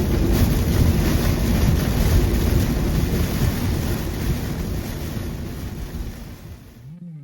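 Steady rushing noise of a car driving through heavy rain, fading out over the last few seconds.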